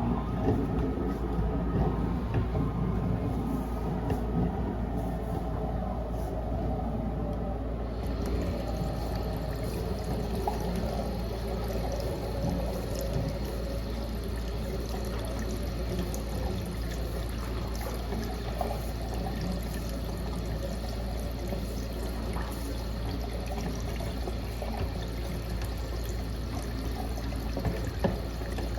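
Engine-driven high-pressure washer running with a steady low drone while water rushes through a drain pipe from a rotating jetting nozzle. About eight seconds in, a higher hiss with a thin steady whine joins the sound.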